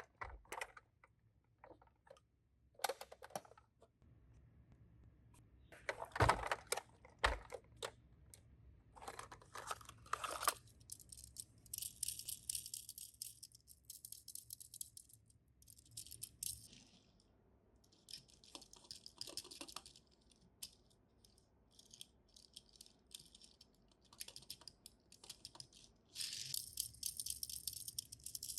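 Die-cast toy cars and their plastic storage being handled: scattered clicks and knocks, then repeated bouts of high, dry rattling, the longest near the end.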